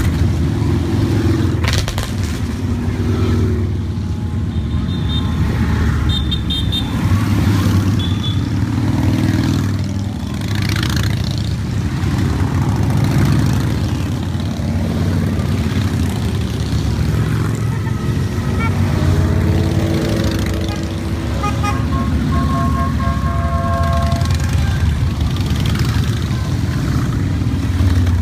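A steady stream of motorcycles riding past in a long procession, engines rumbling continuously, with horns tooting now and then.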